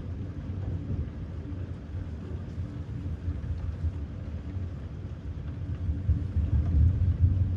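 Thunder rumbling low and continuously over a faint steady hiss, swelling louder about six seconds in.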